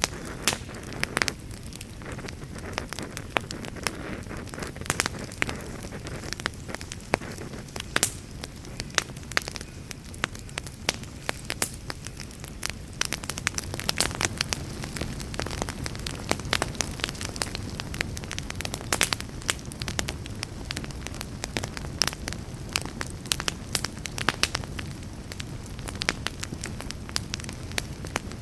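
Wood campfire crackling, with frequent irregular sharp pops and snaps over a steady low rushing sound.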